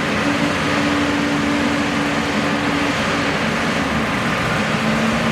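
Steady engine noise with a constant hum, as of motor vehicles idling and running.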